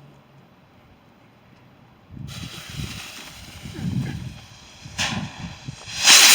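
Firework rocket being set off: a steady hiss starts suddenly about two seconds in, followed by a short burst and then a louder whooshing burst near the end as it launches. Low wind rumble on the microphone runs underneath.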